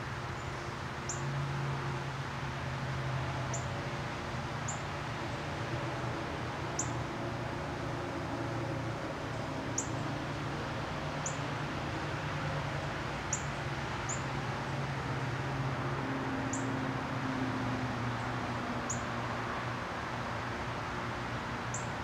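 A bird's short, sharp, high chip notes, about a dozen spaced irregularly, each slurring slightly downward, over a steady low hum and background hiss.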